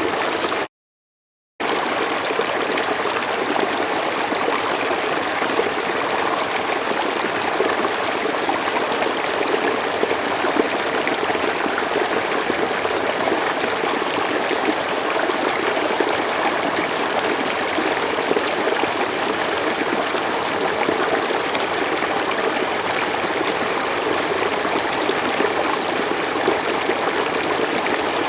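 River water flowing over rocks, a steady rushing and babbling. About a second in it cuts out to silence for just under a second, then resumes.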